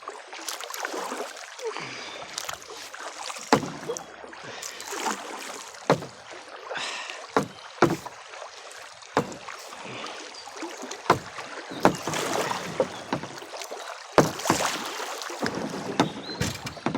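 A kayak being paddled through choppy, current-driven water: water splashes and rushes against the hull, with irregular sharp knocks from the paddle or hull.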